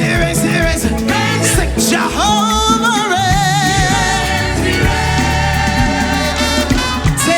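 Live gospel worship music: a band with bass and drums, with a lead voice that rises about two seconds in into a long held note with vibrato.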